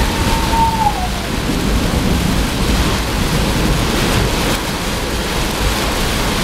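Torrential cloudburst rain pouring steadily, with thunder rumbling low beneath it. A thin high tone slides downward and fades about a second in.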